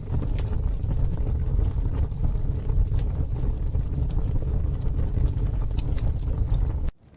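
Campfire crackling, with scattered sharp pops and snaps over a steady low rumble. Near the end the rumble cuts off suddenly, and the crackling goes on more quietly.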